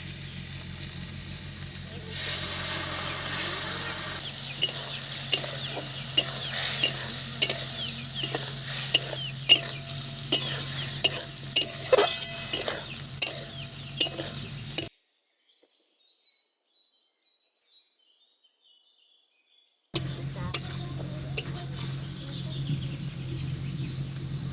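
Food sizzling in a frying pan while a spatula stirs it, clicking and scraping against the pan about once or twice a second. About two-thirds of the way through it breaks off into roughly five seconds of near silence, then the sizzling resumes.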